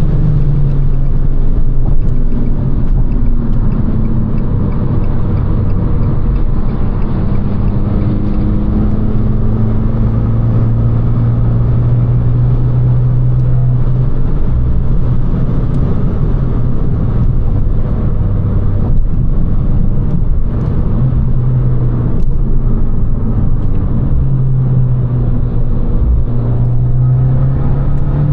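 Abarth 595 Competizione's turbocharged 1.4 T-Jet four-cylinder running through its Record Monza exhaust at a fairly steady cruise, the engine note drifting slightly up and down, over road and tyre noise.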